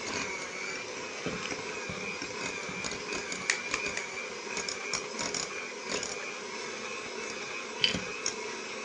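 Electric mixer running steadily, beating eggs into a thick cooked choux-style dough, with scattered light clicks as the beaters knock the bowl.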